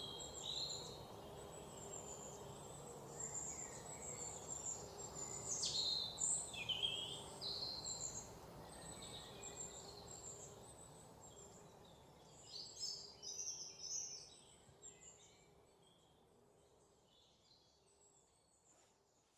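Several wild birds chirping and calling in a forest, short whistled notes and quick downward sweeps over a steady low background hush. The calls cluster in two busier spells, then the whole sound fades away over the last few seconds.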